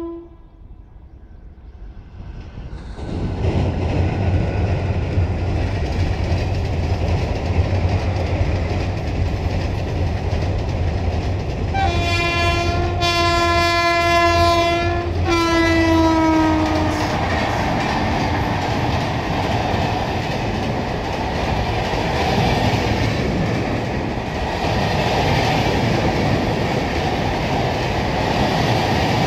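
Passenger train hauled by an electric locomotive: its rumble and wheel clatter build up about three seconds in and stay loud. Around twelve seconds in, the locomotive's horn sounds one long chord of about four seconds, which falls in pitch as it ends. The steady rumble and clickety-clack of the coaches crossing a girder bridge follows.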